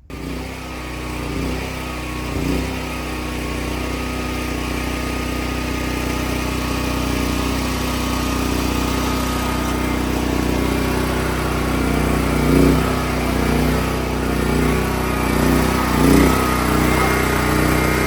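A small engine running steadily with a low hum, swelling a little now and then.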